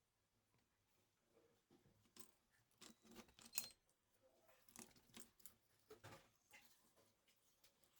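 Faint scattered clicks and rustles of small objects being handled, a little louder a few seconds in.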